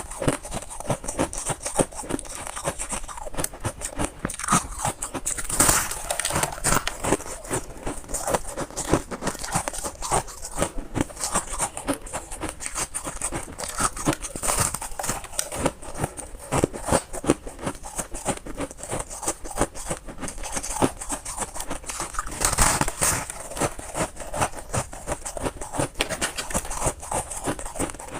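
Close-miked crunching and chewing of crunchy white freezer frost, a dense, unbroken run of crackling crunches.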